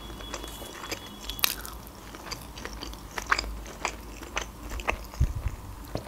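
A person chewing a mouthful of sushi close to the microphone: a run of irregular soft, wet mouth clicks and small crunches.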